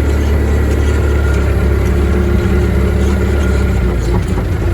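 Farm machine's engine running steadily at a constant speed, loud and low-pitched.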